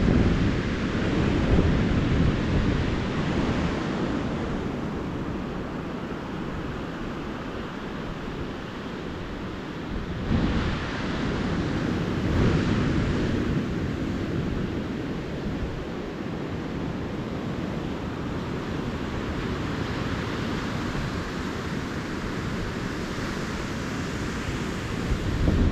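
Calm ocean surf: small waves breaking and washing up the beach, swelling a little louder near the start and again about 10 and 12 seconds in, with wind rumbling on the microphone.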